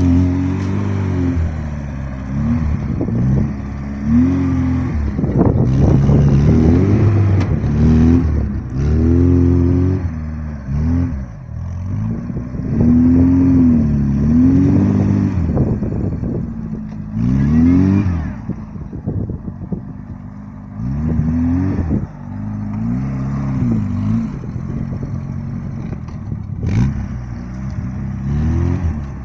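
Newly fitted vehicle engine revving up and down again and again as it is driven over bumpy ground, its pitch rising and falling every second or two.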